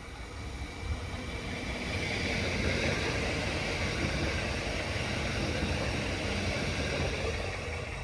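Train passing on the station tracks, with the steady rolling rumble of wheels on rail. It swells over the first couple of seconds, holds, then eases off near the end.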